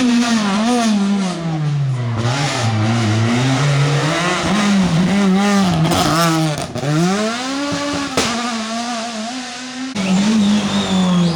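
Rally car engine revving hard on a special stage, its pitch repeatedly climbing and dropping with gear changes and throttle lifts. About ten seconds in, the sound cuts abruptly to another stretch of hard revving.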